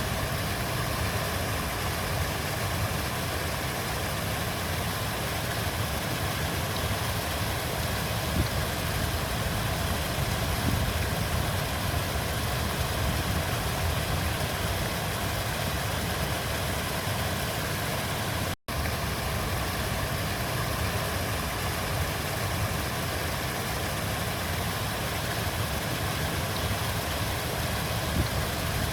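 Steady rush of a flowing river, an even noise heaviest in the low end, cutting out for an instant about two-thirds of the way through.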